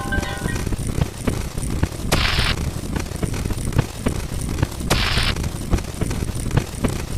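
Dense, irregular stream of rapid pops and booms from overlapping sound effects, like a fast volley of shots. A short burst of hiss cuts in about every three seconds, near the start, past the middle and at the end.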